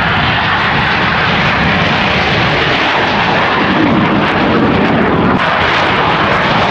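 Airplane flying a display pass, its engine noise loud and steady throughout.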